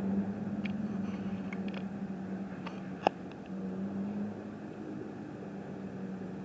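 Car running, a steady engine hum over road noise, with a few light ticks and one sharp click about three seconds in.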